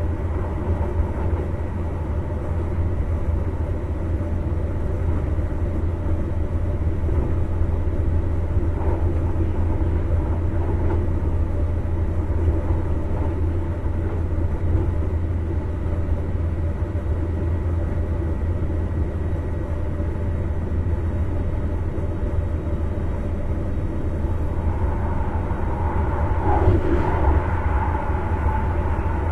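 Electric passenger train running at speed, heard from inside the driver's cab: a steady low hum over the rumble of wheels on rail. Near the end, as it runs into a steel truss bridge, the sound grows a little louder and a higher ringing tone joins in.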